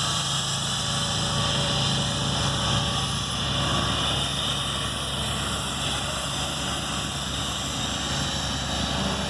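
A small engine running steadily at an even speed, with a constant low hum and a hiss above it.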